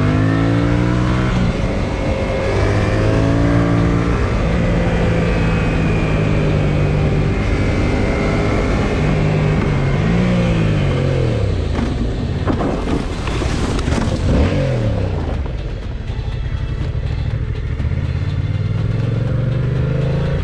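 Motorcycle engine under way, its pitch climbing, holding, then dropping and climbing again several times as the rider shifts and accelerates, over wind and road noise.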